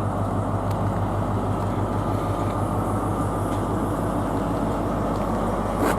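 LNER InterCity 225 electric push-pull train pulling out, a steady rumble with a constant low hum.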